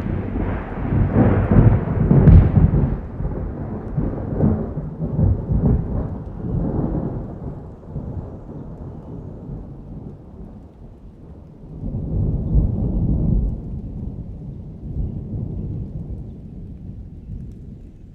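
A long roll of thunder over steady rain: loud low rumbling with sharp cracks in the first few seconds that slowly fades, then swells again about two-thirds of the way through before dying away.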